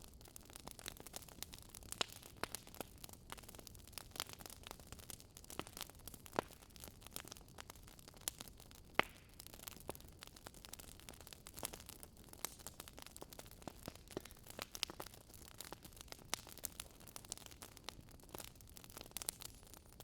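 Campfire wood crackling faintly, with irregular sharp pops over a soft steady hiss.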